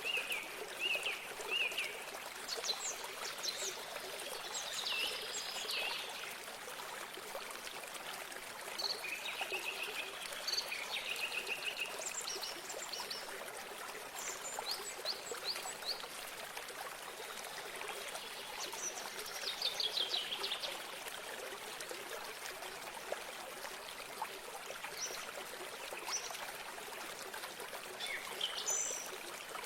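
Running water, a small stream or spring, flowing steadily, with several songbirds calling over it: short repeated chirps near the start and again around the middle, and quick high trills at several points.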